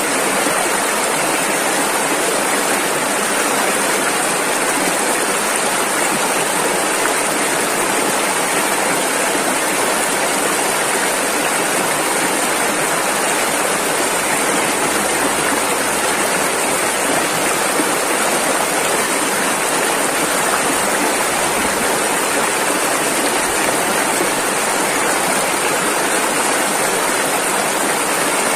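Rushing river water running over rapids, a steady unbroken wash of noise.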